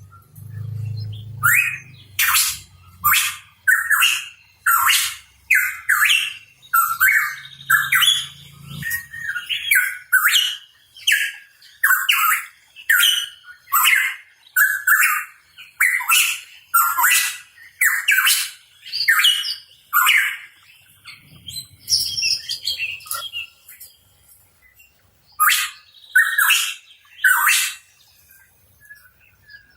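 Hooded pitohui calling: a rapid series of short, sharp, high chirping notes, about one or two a second, breaking off around twenty seconds in, then three more calls near the end.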